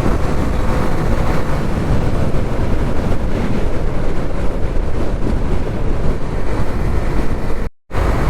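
Wind rushing over the microphone of a motorcycle riding at highway speed, mixed with engine and road noise, steady and loud. The sound drops out completely for a moment near the end.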